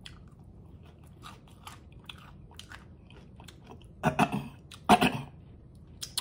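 Close-miked eating of a crunchy hard-shell taco: quiet chewing with small mouth clicks, then two loud bursts of crunching about four and five seconds in as the hard taco shell is bitten and broken between the teeth.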